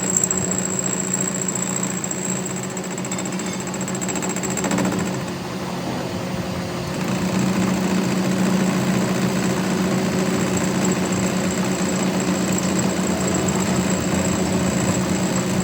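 A workshop power machine running steadily with a constant hum. It eases off briefly about five seconds in and picks up again about two seconds later.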